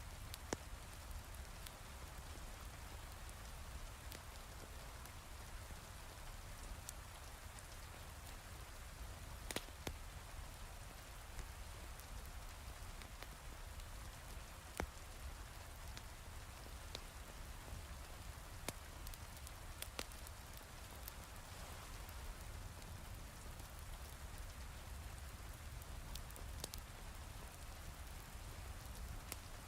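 Steady heavy rain with a low rumble, with scattered sharp crackles from a log fire in a fireplace.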